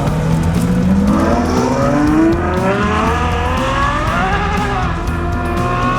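A car engine revving hard as the car accelerates away, its pitch climbing steadily for about four seconds and then levelling off. Background music plays underneath.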